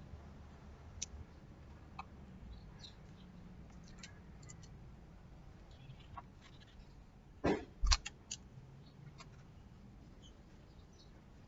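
Faint scattered clicks and taps, with a louder knock, then a second, about seven and a half to eight seconds in.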